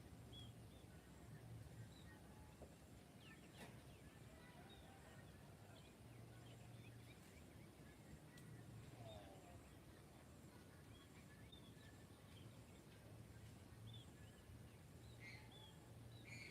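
Faint, scattered bird chirps and short calls in a quiet rural evening soundscape, with a few calls together near the end, over a low steady hum.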